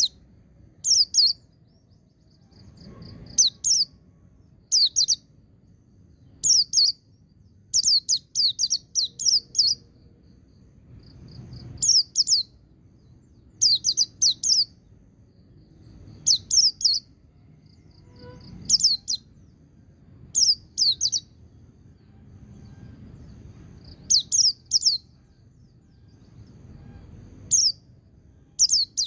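White-eye (pleci) singing in the 'ngalas' style: short clusters of two to five sharp, high, falling notes, repeated every second or two.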